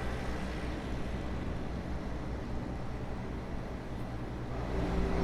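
City street traffic with a motor vehicle's engine running nearby as a steady low hum, growing louder near the end.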